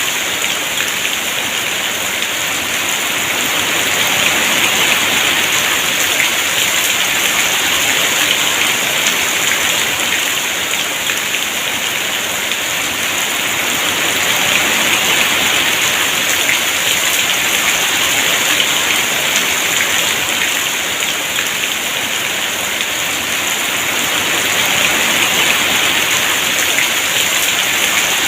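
Heavy rain pouring steadily, its hiss swelling and easing gently every several seconds.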